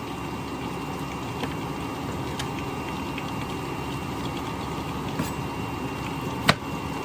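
A steady mechanical hum, with a few faint clicks and one sharp click near the end.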